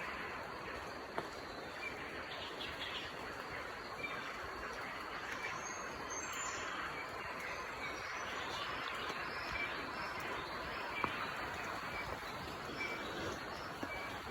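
Dawn birdsong: one bird repeats a short high note every second or two and others chirp now and then, over a steady background hiss.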